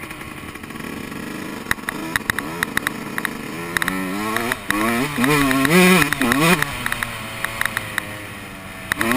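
Yamaha YZ125 two-stroke dirt bike engine revving, its pitch rising and falling several times over the middle of the stretch as the throttle is worked, with scattered sharp knocks.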